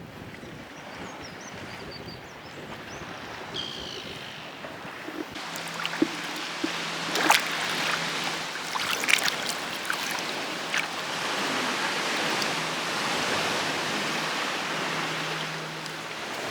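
Sea water splashing and washing around a kayak on open water. It grows louder about five seconds in, with several sharp splashes.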